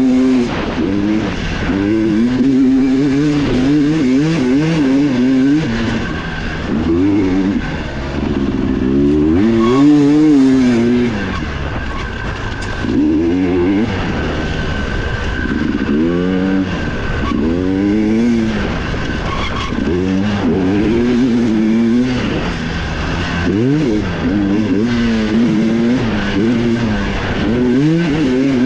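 Dirt bike engine heard on board, revving up and dropping back over and over as the rider works the throttle through a trail section.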